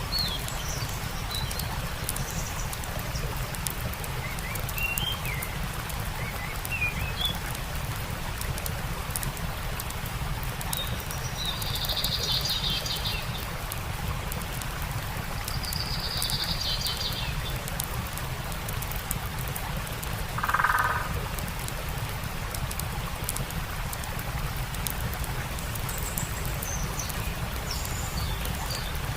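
Stream water running steadily with the fine crackle of a campfire, and small birds chirping: bursts of high trilled song about twelve and sixteen seconds in, and a lower call about twenty seconds in that stands out as the loudest sound.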